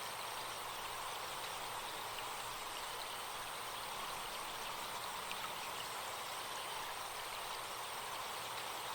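Recorded forest stream running steadily in a continuous, even wash of water, with a faint, steady high insect buzz over it.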